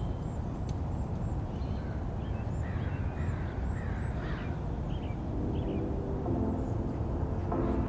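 Birds chirping and calling over a steady low outdoor rumble, with music starting to come in during the second half.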